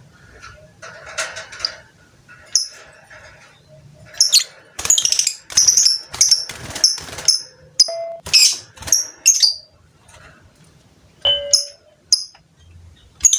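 Lovebird giving shrill, high chirping calls in a quick series, closely spaced for several seconds in the middle, with a couple more calls near the end.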